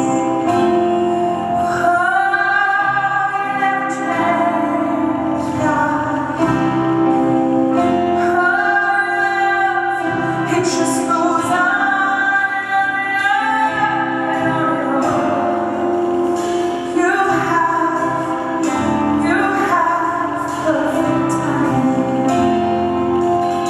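A woman singing a song with instrumental accompaniment, holding several long notes.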